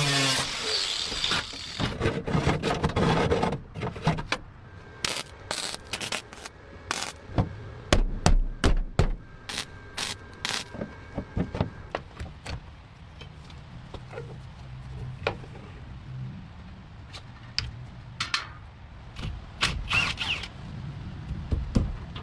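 Hand-tool work on the car: a hissing rush in the first few seconds, then a long run of irregular knocks, clicks and scrapes.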